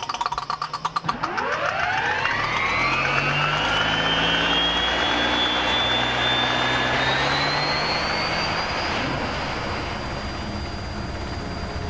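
Aircraft turbine engine starting up: quick regular ticking at first, then a whine that climbs steeply for a few seconds and levels off into a steady high whine over a low hum.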